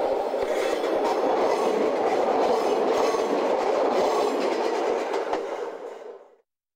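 Nagano Electric Railway electric train passing close by, a steady rumble with its wheels clicking over the rail joints. The sound fades away about six seconds in.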